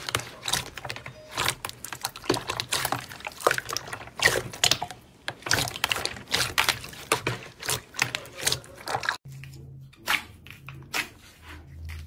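Crunchy slime being worked by hand: a dense run of wet crackles and pops. About nine seconds in it cuts to sparser clicks over a low hum.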